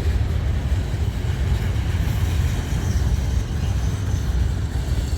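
Freight train of covered-hopper grain cars rolling past at close range, a steady low rumble of wheels on rail.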